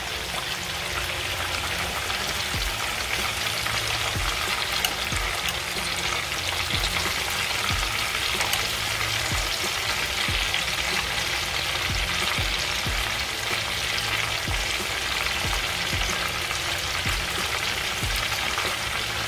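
Chicken wings frying in hot vegetable oil in a pan, cooking on their second side: a steady bubbling sizzle with small crackles and pops.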